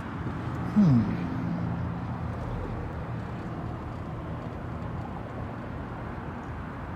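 Car engine running with a steady low hum, heard from inside the car. About a second in there is a short falling vocal sound.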